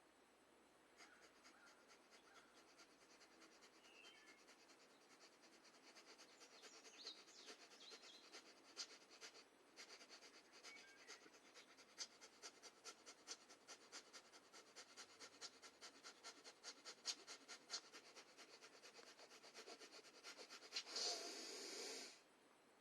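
Quiet, rapid, rhythmic forceful breathing through the nose, a pranayama practice such as kapalabhati or bhastrika, with short even breath pulses one after another. Near the end comes one longer, louder breath of about a second.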